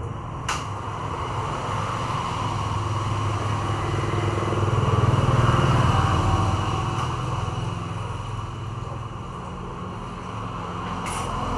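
A motor vehicle passing: engine noise swells to its loudest about five to six seconds in, then fades. A single sharp click about half a second in.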